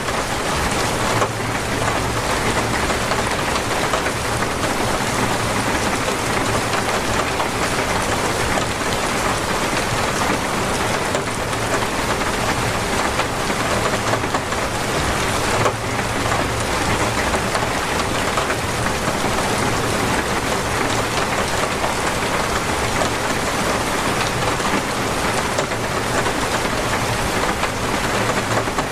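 Torrential rain falling steadily, a dense even hiss of rain on surfaces, with brief louder moments about a second in and around the middle.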